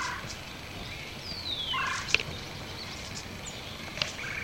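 Woodpecker's everyday calls while foraging: short calls near the start and about two seconds in, a falling whistle between them, and a couple of sharp taps.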